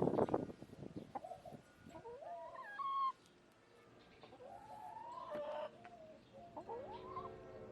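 Backyard hens calling: several drawn-out calls that rise and fall in pitch, spaced a couple of seconds apart, after a brief burst of rustling and knocks at the start.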